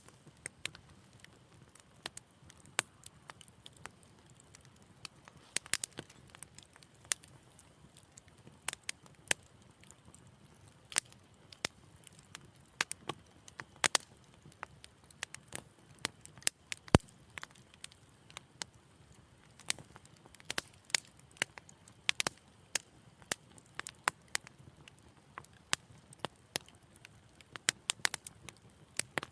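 Wood fire in a fireplace crackling: irregular snaps and pops over a soft low rumble of the flames, with one much louder pop a little past the middle.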